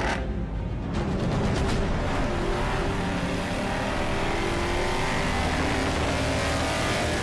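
A car engine sound effect revving hard and holding a loud, steady roar, with music underneath. It starts with a sudden hit.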